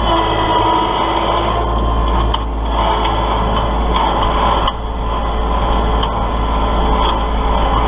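Kubota L3901 compact tractor's three-cylinder diesel engine running steadily.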